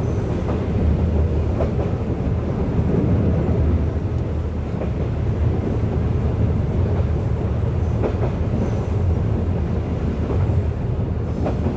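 Metre-gauge train running on the track: a steady low rumble with a few scattered clicks from the wheels and rails.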